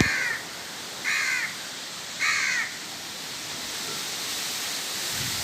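A crow cawing three times, about a second apart, over a steady hiss of light drizzle.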